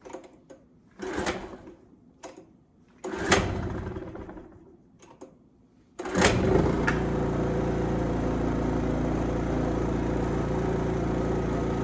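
A 1980s Honda portable generator's small engine being cold-started by its recoil pull cord. It fires briefly on the second pull and dies, then catches on the third pull about six seconds in and settles into a steady run. Starting in three pulls shows its carburettor fuel problem is fixed.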